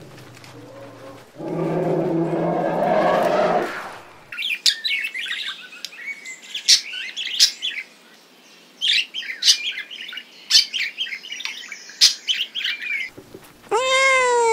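An Asian elephant gives a low call lasting about three seconds. Then two cockatoos make a run of short, sharp, high squawks and screeches. Near the end a kitten starts a meow that rises and falls in pitch.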